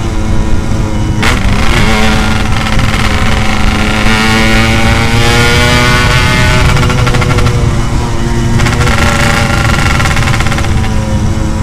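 Yamaha RX-King two-stroke single-cylinder motorcycle with a loud aftermarket 'setengah dewa' exhaust, being ridden. After a short break in the note about a second in, the engine pitch climbs for a few seconds, then holds fairly steady.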